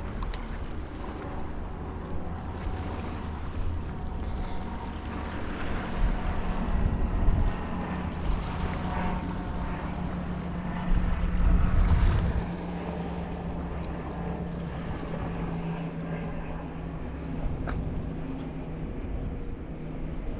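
A motor running steadily with a low hum under a wash of outdoor noise, and wind buffeting the microphone, hardest twice: about a third of the way through and again about halfway.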